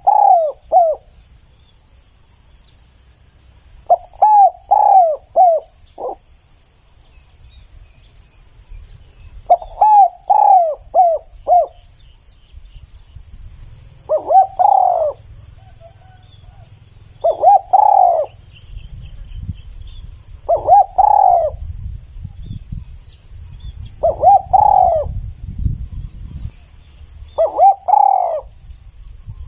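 Spotted dove cooing loudly in repeated phrases. The first phrases are three or four coos; later it gives shorter pairs of coos about every three seconds. Insects trill steadily and high in the background.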